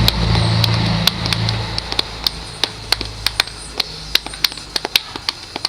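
Body percussion: many sharp snaps and taps, several a second and irregularly spaced, over a low steady hum that fades out about two seconds in.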